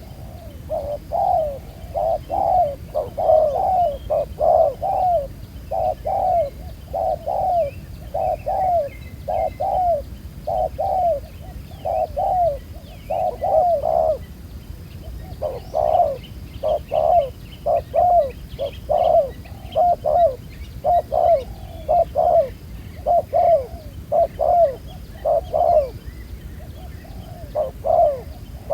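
Spotted dove cooing: low, bending coo notes repeated in phrases over and over, with short pauses about halfway through and near the end.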